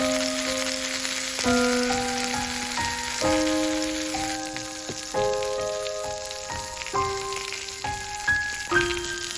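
White sausages sizzling on a hot iron griddle plate over a campfire, a steady frying hiss. Background music of sustained notes, changing every second or two, plays over it.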